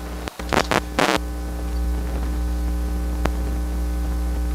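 Steady electrical mains hum with a ladder of overtones from the sewer inspection camera's recording system, broken by loud bursts of static crackle about half a second and one second in, and a single sharp click a little past three seconds.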